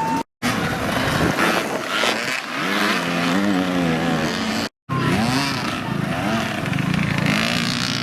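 Several dirt bike engines revving, their pitches rising and falling over one another. The sound cuts out completely twice, briefly.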